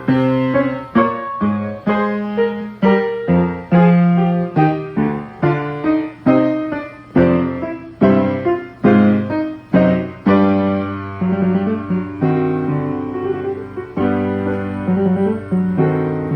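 Steinway XR Duo-Art reproducing piano playing a piece: a quick run of struck chords and notes, each fading after its attack, with longer held chords from about ten seconds in.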